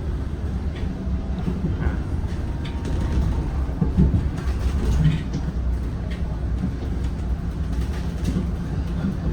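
Interior running noise of a Zhongtong N12 bus: a steady low engine and road rumble with scattered cabin rattles and knocks.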